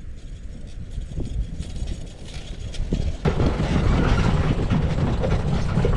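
Electric UTV driving over a rough dirt track: rumble of tyres and suspension with rattling clicks, getting suddenly louder about three seconds in.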